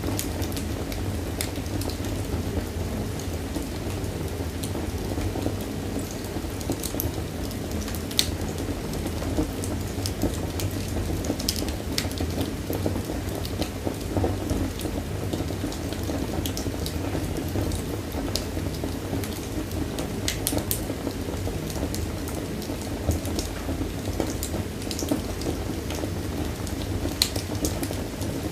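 Wood fire crackling in a fireplace: a steady low rumble of the flames with irregular sharp pops and snaps scattered through it.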